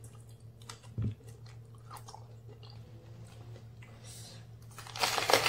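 Close-up chewing of a jumbo prawn dipped in sambal: soft wet mouth clicks, with a low thump about a second in. Near the end comes a loud crunchy bite into a raw round eggplant.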